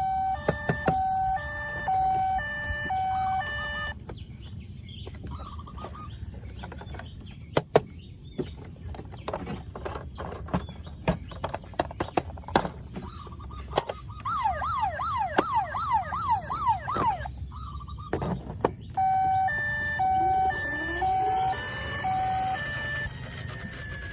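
Electronic toy siren sounds: a stepped beeping siren hopping between a few pitches, a fast up-and-down wailing yelp in the middle, then the stepped siren again, with many small plastic clicks throughout.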